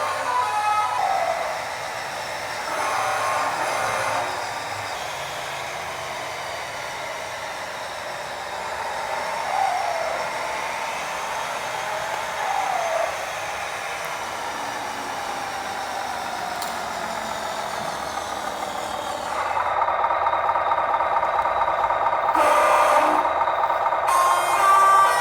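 Small RC truck running: the electric drive motor and gears whine, the pitch rising and falling as it speeds up and slows. About 19 seconds in, the sound grows louder and denser, with several steady tones.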